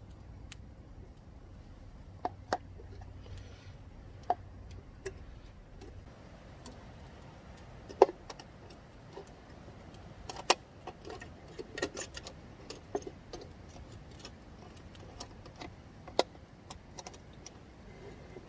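Campfire crackling: firewood burning with irregular sharp pops and snaps, a few of them much louder than the rest.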